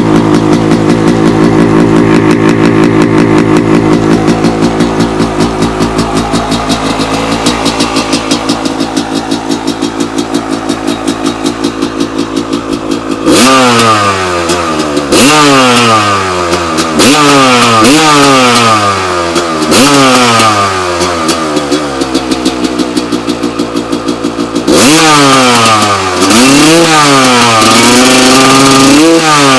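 Suzuki RM250 two-stroke motocross engine idling steadily while it warms up after a cold start. About 13 seconds in, the throttle is blipped: each rev climbs sharply and drops back, roughly one every couple of seconds. Near the end come louder, quicker revs.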